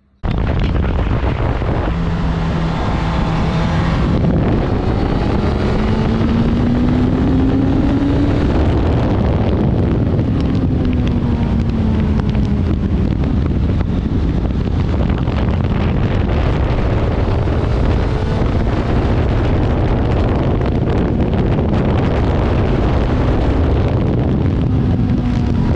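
Suzuki GSX-S1000GT's inline-four engine pulling hard under acceleration, its pitch climbing for several seconds and then easing off, largely buried under heavy wind rush on the microphone at riding speed.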